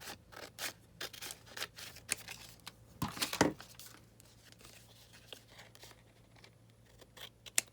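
Scrap paper being handled and worked by hand: crinkling and rustling with a quick run of sharp snips and clicks in the first few seconds, the loudest scrape about three seconds in, then only faint ticks.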